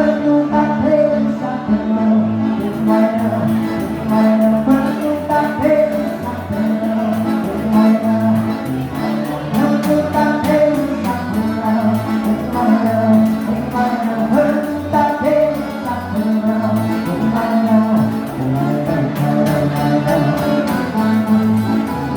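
Live gaúcho dance-band music with singing over a steady, repeating bass line.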